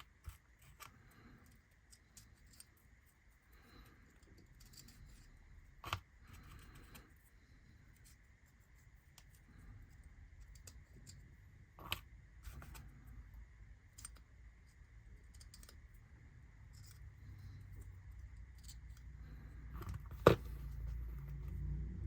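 Small sharp clicks, snips and scrapes of laser-cut kit parts being freed from their sheet and their edges cleaned up, with the loudest click about twenty seconds in. A faint steady high whine runs underneath.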